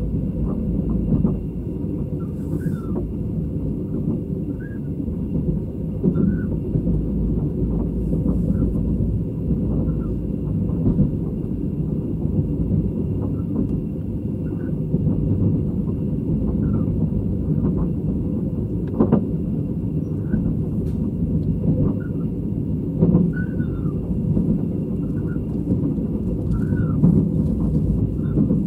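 Interior running sound of a State Railway of Thailand sleeper coach on metre-gauge track: a steady low rumble of the wheels with irregular knocks and short squeaks every second or two, a faint steady high whine, and one sharp click about two-thirds of the way through.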